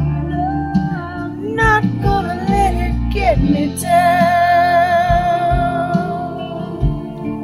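A woman sings wordless ad-lib phrases over a country backing track with guitar, ending in a long held note with vibrato.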